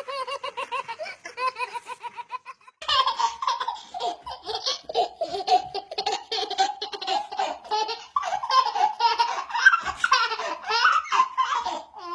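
A small child laughing in quick, high-pitched peals, pausing briefly about two and a half seconds in, then laughing on almost without a break until it cuts off suddenly at the end.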